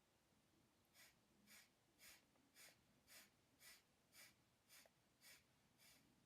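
Kapalabhati breathing: ten short, forceful exhalations blown out through the nose, evenly paced at about two a second, each a brief faint hiss.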